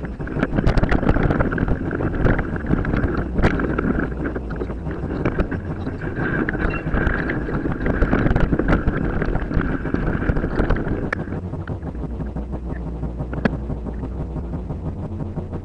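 Wind buffeting the microphone and the clatter of a mountain bike over rough ground, with many sharp knocks and a steady high whine that stops about eleven seconds in.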